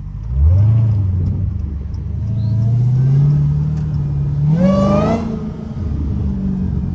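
Straight-piped Dodge Challenger Hellcat's supercharged V8 accelerating hard through a gear. The exhaust note climbs steadily, a high supercharger whine comes in as it peaks about five seconds in, and then it lifts off.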